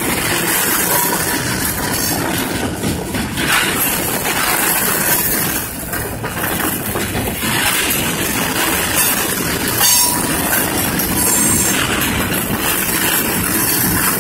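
Loaded tank cars of a freight oil train rolling past: a steady rolling noise of steel wheels on rail, with frequent clicks.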